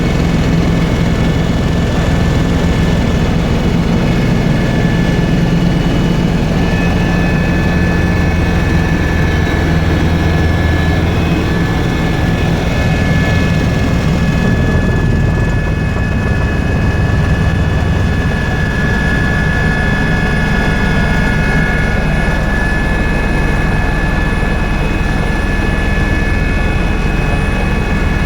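Tour helicopter running steadily in flight: a loud, unbroken drone with a steady high whine over it.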